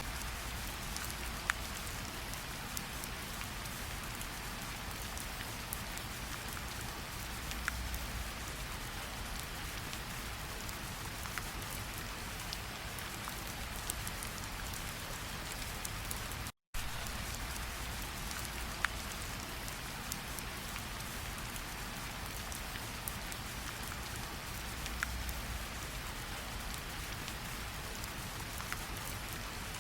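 Steady rainfall as an even hiss, with scattered sharper ticks of single drops striking nearby. The sound cuts out completely for a split second a little past halfway through.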